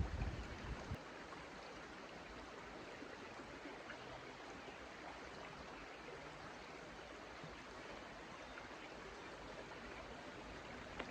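Stream water flowing in a steady, even rush. A low rumble is heard over it in the first second, then stops.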